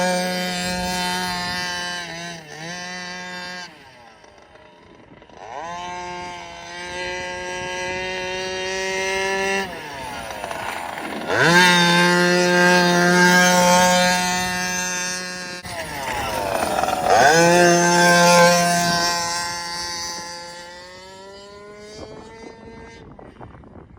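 A 36cc two-stroke petrol engine in a 1/5-scale Rovan RC rally car, revved in about four throttle bursts. Each burst climbs quickly in pitch, holds a steady high-rev pitch for a few seconds and then drops off. The last one fades away near the end.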